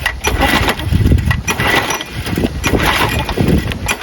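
Briggs & Stratton flathead push-mower engine being pull-started, turning over in a run of uneven surges without settling into a steady run. The engine has been fed sand and grit through its intake.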